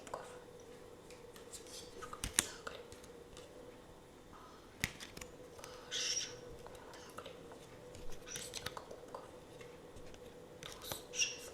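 Tarot cards being handled: a few sharp taps and clicks, and short papery slides and rustles of the cards. A faint steady hum runs underneath.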